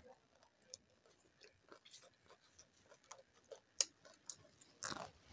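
Close-up chewing and lip-smacking as a person eats by hand: scattered faint wet mouth clicks, with a sharper click about four seconds in.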